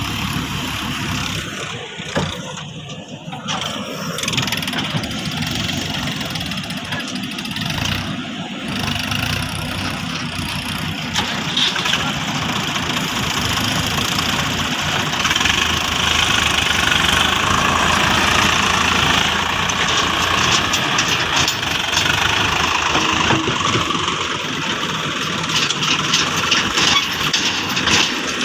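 A tractor or JCB engine running steadily, getting louder about eleven seconds in, with some sharp clicks near the end.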